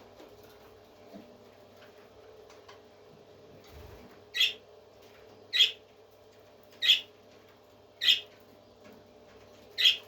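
A parrot squawking five times, short sharp calls about a second apart, over a faint steady hum.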